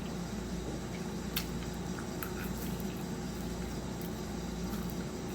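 Close-miked chewing of food, with a few small clicks over a steady background hum.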